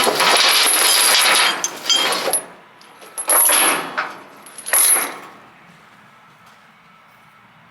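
Steel tie-down chains rattling and clinking as they are handled: one long rattle of about two seconds, then two shorter ones, then only a faint low hum.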